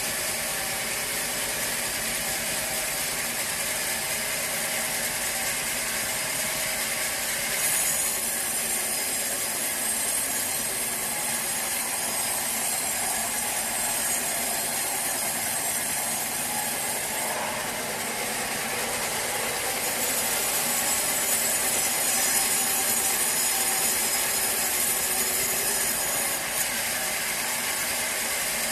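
Band sawmill running steadily, with a high thin whine over the machine noise, the sound shifting a few times as the cut goes on.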